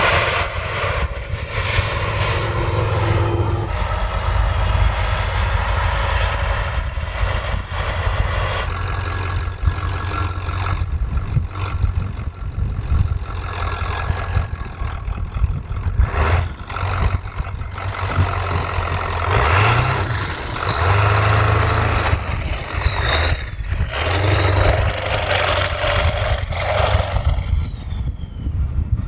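Heavy diesel truck engine running, swelling and easing as the throttle goes on and off, with a high whine gliding up and down in the later part.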